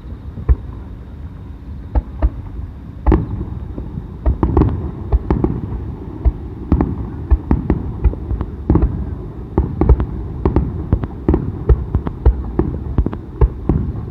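Fireworks shells bursting in a festival display: a few scattered bangs at first, then from about three seconds in a rapid barrage of bangs, two or three a second, over a continuous rumble.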